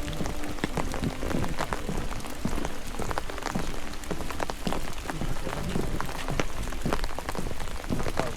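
Steady rain falling, with many close, irregular drop hits ticking over a continuous hiss.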